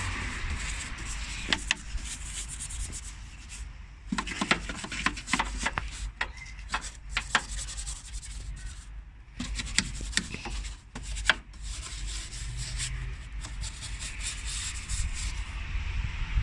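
A stiff detailing brush scrubbing degreaser into engine bay surfaces: an irregular scratchy rubbing, broken by sharp clicks as the brush knocks against parts. A steady low rumble runs underneath.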